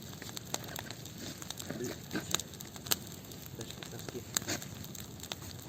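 Campfire burning and crackling, with irregular sharp pops from the wood.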